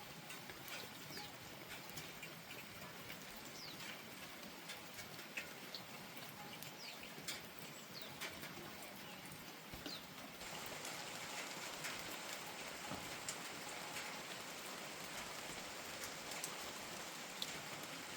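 Steady rain falling, with scattered drips ticking on nearby surfaces; the rain grows a little louder about ten seconds in.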